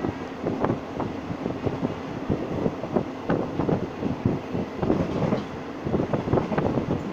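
Passenger train rolling along the track, heard from on board the coach: a steady rumble with irregular knocks and rattles from the wheels and carriage.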